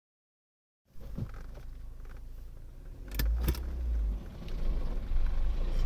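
Silence, then from about a second in the steady low rumble of a moving car, growing louder about three seconds in, with two sharp clicks at that point.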